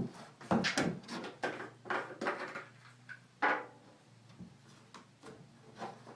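Irregular knocks and clunks from a gas can and the snowblower's fuel cap being handled as refuelling begins. There are about a dozen, closely spaced at first and thinning out after about four seconds.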